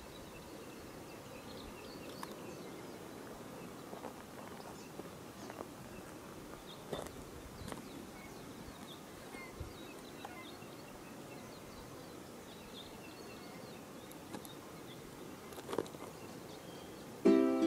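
Quiet outdoor ambience with scattered faint clicks and small high chirps. Ukulele music starts near the end.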